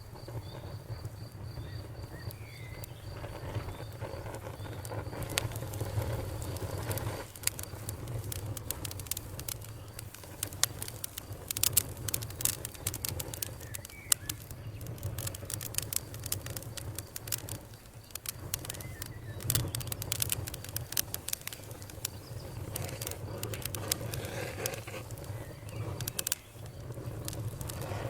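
Wood campfire crackling, with many sharp snaps and pops that come thickest from about five seconds in, over a low steady rumble. A cricket chirps steadily in the opening seconds.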